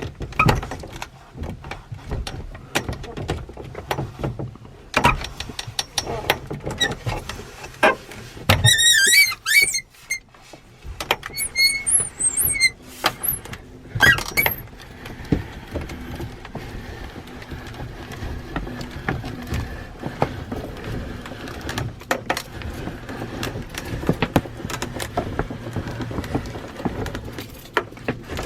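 1992 Skamper 060S pop-up truck camper's roof being raised by hand: a run of knocks, clacks and rattles, with wavering high squeaks from the roof mechanism twice in the first half. The second half is steadier, with scattered knocks.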